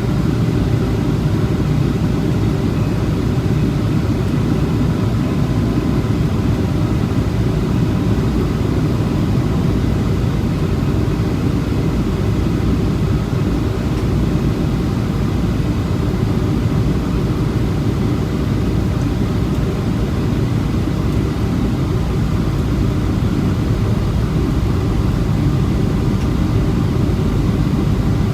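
Boeing 737-700 airliner in flight: a steady, even noise of engines and airflow, mostly low, with faint steady tones above it.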